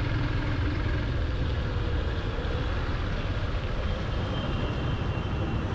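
Motorcycle riding on the road: a steady rumble of engine, tyre and wind noise, with a faint high whine in the second half.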